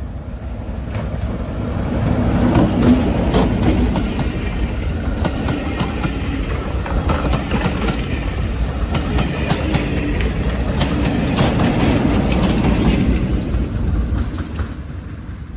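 Diesel-hauled passenger train passing close by. The locomotive's engine builds and goes past about two to three seconds in, then the coaches run by with their wheels clicking over the rail joints, the sound falling away near the end.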